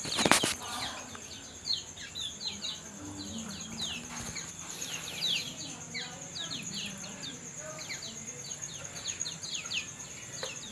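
Kecial kuning songbird calling with many quick, short, falling chirps over a steady high trill. A sharp knock sounds right at the start.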